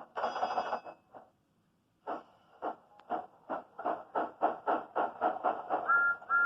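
Steam locomotive chuffing, the puffs quickening as it gets going, with a short two-note whistle near the end.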